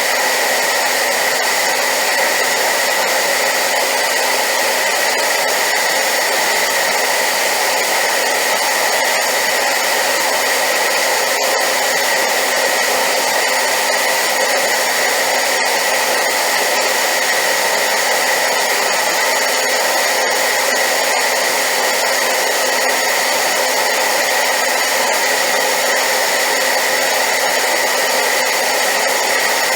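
Hair dryer running steadily on high power: a loud, unchanging rush of air with a faint steady whine in it.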